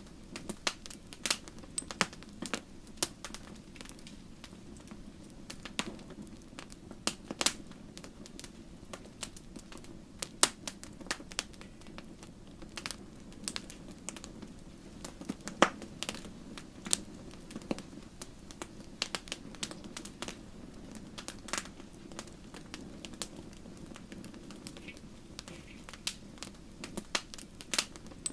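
Wood fire burning in a fireplace: logs crackling with irregular sharp pops over a low steady rush of the flames.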